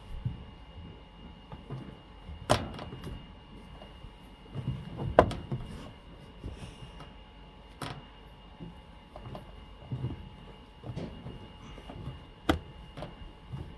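Clothes being handled and loaded into a washing machine: irregular rustling, soft thuds and knocks, with several sharper knocks scattered through.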